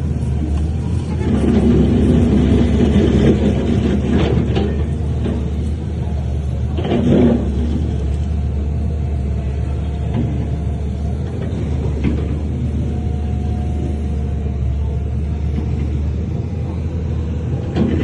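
Heavy earthmoving machine's diesel engine running with a steady low rumble, with a few short metallic clanks and knocks, the loudest about seven seconds in.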